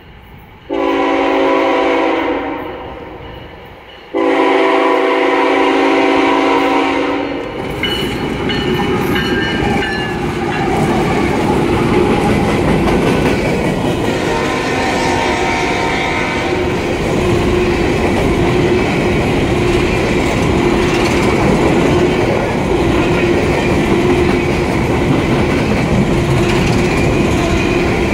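Diesel freight locomotive horn sounding two long blasts as the train nears a grade crossing. Then the locomotives pass and a long string of empty coal cars rolls by with a steady rumble and clickety-clack of wheels over the rail joints.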